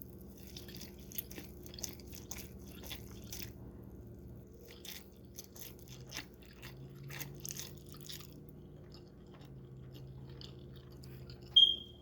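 Close-up chewing, a run of soft irregular wet clicks and crunches, over a faint steady hum. Near the end there is one short, loud, high-pitched squeak or beep.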